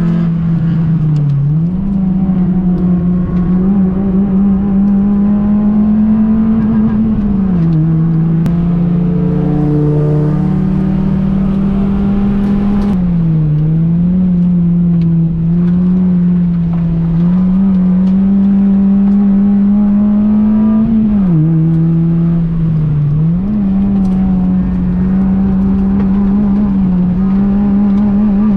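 Honda Fit's 1.5-litre four-cylinder engine running hard at high revs on a race track. Its note holds fairly steady and dips briefly about five times, each time climbing back up.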